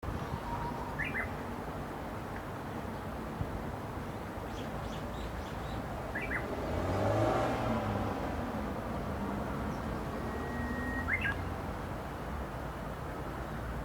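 Japanese bush warbler singing its song three times, a held whistle followed by a quick warbled flourish, with faint chirps from other birds. A vehicle passes midway, swelling and fading around the seventh second.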